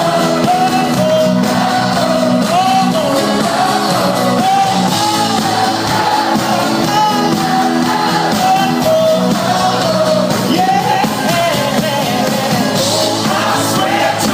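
Live band playing a song with a lead vocal singing the melody over a full band backing, captured in a concert venue.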